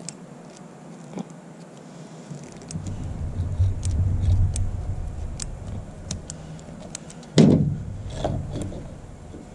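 Small clicks and handling noise from hand tools working on wiring. A low rumble builds about three seconds in and fades, and a single loud thump comes about seven seconds in.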